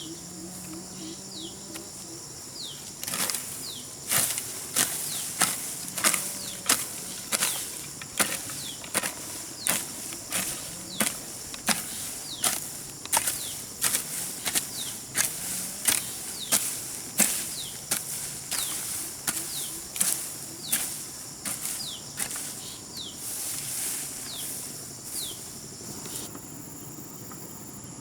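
Garden hoe chopping into grassy soil in steady strokes, a little under two a second, starting about three seconds in and stopping shortly before the end. Insects drone steadily throughout, with short high chirps.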